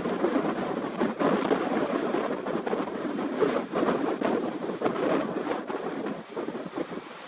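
Strong wind gusting across the microphone, a rough rushing rumble that rises and falls and eases near the end.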